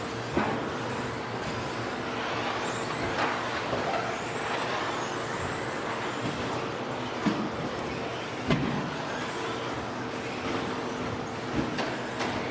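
Several 13.5-turn brushless electric RC stadium trucks racing on a dirt track: high motor whines that rise and fall with the throttle over tyre noise, with a few sharp knocks through it.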